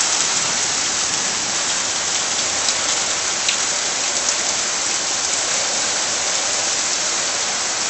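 Steady heavy rain falling and splashing on surfaces, with an occasional faint drip-like click, as a thunderstorm dies down.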